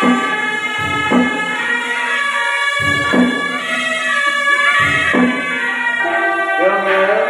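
Temple-procession band music: a shrill, reedy wind melody held over a steady drone, with low drum strikes every one to two seconds.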